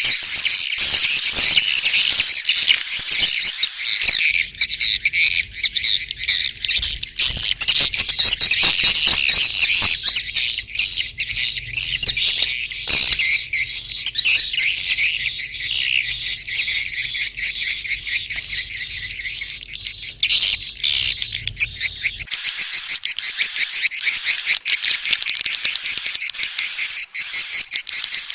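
Dense chorus of edible-nest swiftlets chittering and twittering in rapid high chirps and clicks, a recorded swiftlet call sound used to lure swiftlets into a nesting house. About 22 seconds in, a low hum underneath drops out and the calling thins to a steadier high trill.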